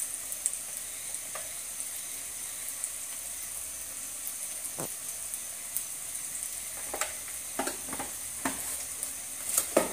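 Spiced onion masala paste sizzling steadily in oil in a wok, with a few light knocks of utensils; the loudest knocks come near the end.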